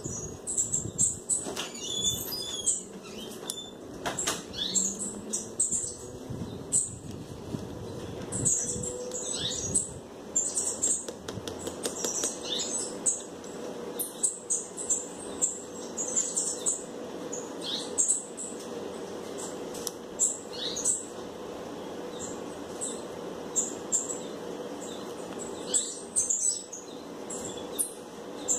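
Birds chirping: short, high chirps repeated irregularly, often several a second, over a faint steady hum.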